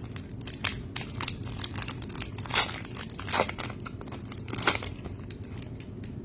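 Basketball trading cards and their pack being handled: a run of short rustles, flicks and crinkles as cards slide against each other. The loudest come about two and a half, three and a half and just under five seconds in.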